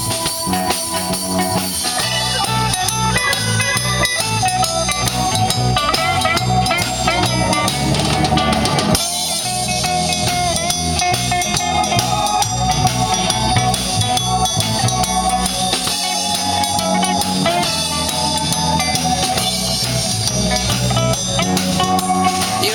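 Live blues band playing an instrumental break: a guitar lead with bending notes over a drum kit beat.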